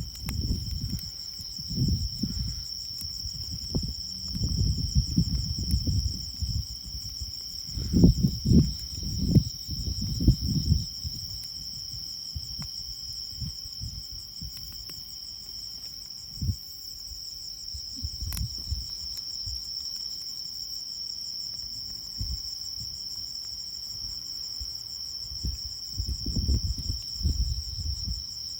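Insects, crickets among them, chirring steadily at a high pitch throughout. Irregular low rumbling gusts come and go beneath them, strongest in the first third and again near the end.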